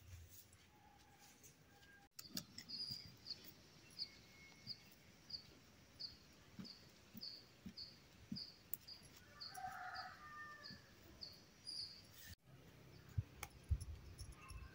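A small bird chirping over and over, about twice a second, faint, with a brief lower call about ten seconds in. Soft taps and rustles of leafy greens being picked over by hand on a floor.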